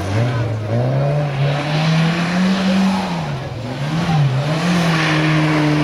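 Small car's engine revving under hard acceleration, its pitch climbing for the first few seconds, dipping twice in the middle, then holding steady.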